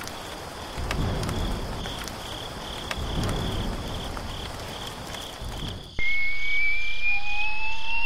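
Rainstorm ambience: steady rain with low rumbles of thunder and a chirping insect pulsing at an even rate. About six seconds in, this cuts off suddenly and a loud, slowly rising whistle tone sound effect takes over.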